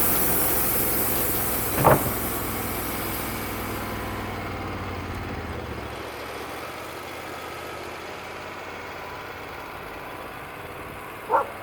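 Wood-Mizer LT35 sawmill's engine running while the sawing noise dies away over the first few seconds, then running lower and steadier, near idle. Two short, sharp sounds cut through, about two seconds in and again near the end.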